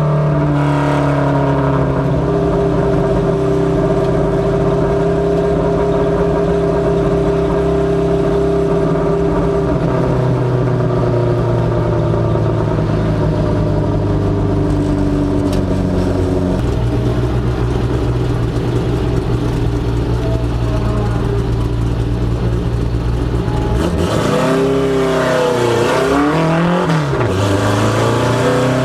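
Ministock Mustang LX notchback race car engine running hard on track during practice laps, its pitch holding fairly steady with small shifts. In the last few seconds the revs swing quickly up and down.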